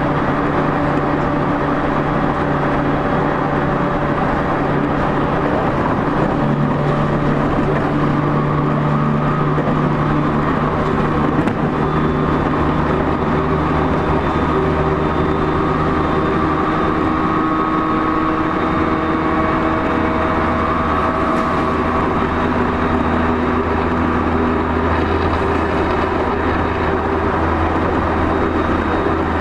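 Running sound inside the motor car of a JR East E231-0 series commuter train at speed: a steady rolling rush of wheels on rail, layered with the whine and hum of the traction motors and inverter. About eleven seconds in, the low hum shifts to a different pitch.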